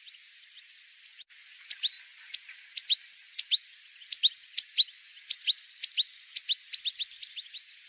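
European goldfinch call notes: a run of short, sharp chirps, faint at first, then loud from about a second and a half in, often in quick pairs and coming thicker toward the end.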